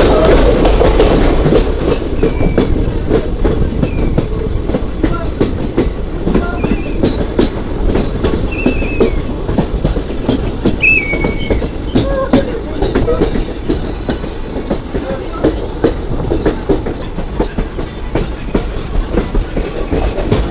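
Passenger train running on the track: a steady rumble with the clickety-clack of wheels over rail joints and a few brief high wheel squeals.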